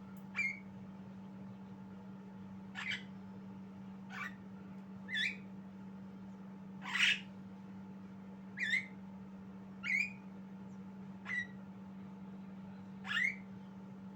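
Javan myna giving short, separate calls, about nine of them roughly every second or two, several with a quick upward hook. A steady low hum runs underneath.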